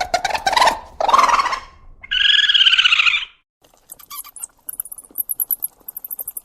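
A run of different animal calls: a few short calls, then one held, wavering call, then after a short pause a fast, very high-pitched chirping trill.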